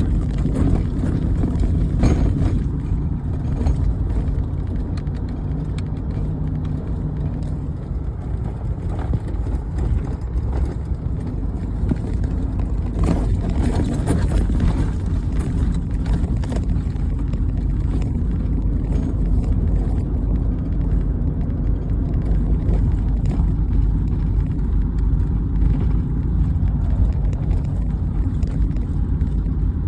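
A heavy machine's engine running steadily at a low rumble, with a few short clanks and knocks.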